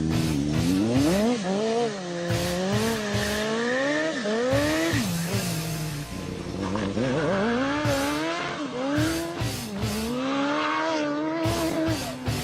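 Go-kart powered by a Suzuki Hayabusa inline-four motorcycle engine, driven hard: the engine note climbs and falls over and over, with sudden drops in pitch as the throttle is lifted or a gear is changed.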